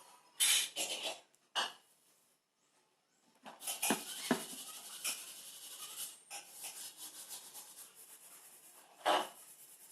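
Irregular rubbing and scraping, with a couple of sharp knocks about four seconds in and short louder scrapes near the start and near the end.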